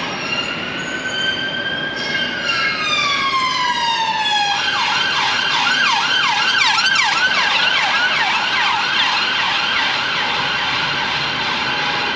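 Emergency vehicle siren on a city street. It starts with a slow wail rising and then falling, and about four and a half seconds in switches to a fast yelp of about three sweeps a second.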